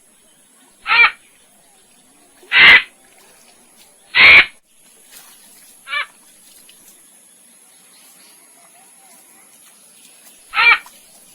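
An animal giving short, harsh calls, each about a quarter second long, five times at irregular intervals with a long gap before the last.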